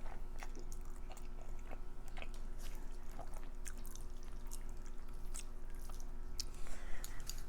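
Close-miked eating sounds: chewing a mouthful of creamy pasta, with soft wet mouth clicks scattered irregularly through.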